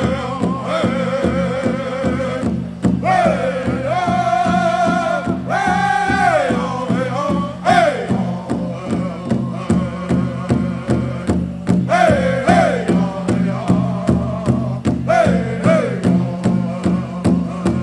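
Powwow drum group singing in high, falling phrases over a steady beat on a large powwow drum, about three beats a second near the end.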